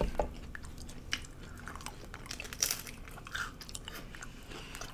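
Close-up chewing of crunchy hard taco shells, with a few scattered crisp crunches among softer mouth sounds.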